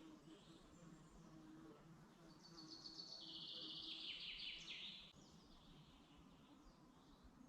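A songbird sings one trilled phrase of about three seconds, starting about two seconds in and stepping down from high notes to lower repeated ones. Underneath is a faint, steady low hum.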